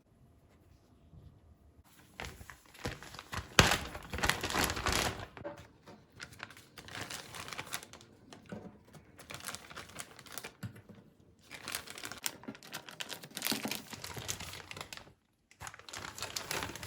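Plastic packaging crinkling and rustling in irregular handling spells, with a sharp click about three and a half seconds in.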